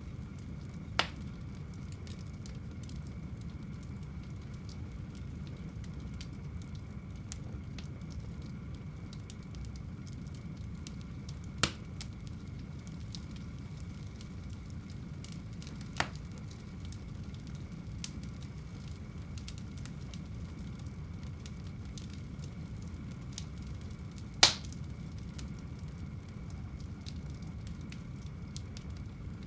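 Wood fire burning in a home fireplace: a steady low rush with many faint crackles, broken by four sharp, louder pops, the loudest late on.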